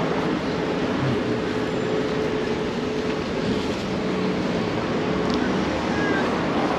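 Steady noise of city street traffic, with a faint steady hum running through it.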